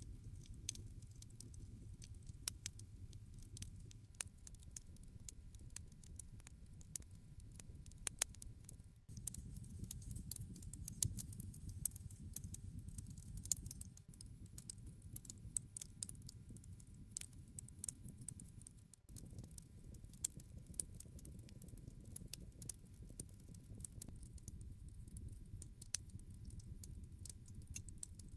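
Wood campfire burning: irregular sharp crackles and pops over a low, steady noise of the flames.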